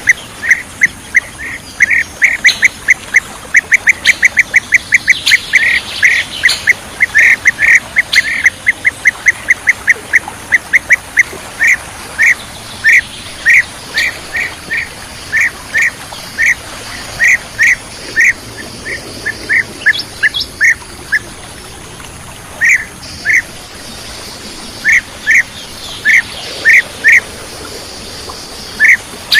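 Bee-eater calls: a series of short, loud call notes, rapid at first at several a second, then spacing out to one or two a second with brief pauses, with fainter higher-pitched notes from other birds behind.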